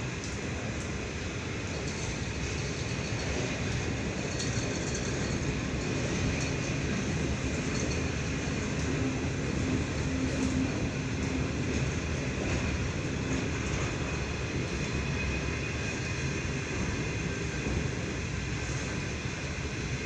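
Long freight train of steel wagons rolling slowly past: a steady rumble of wheels on rail.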